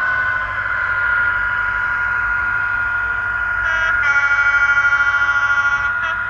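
A horn sounds for about two seconds, starting a little past halfway, over a steady high-pitched whine from the running HO-scale model train layout.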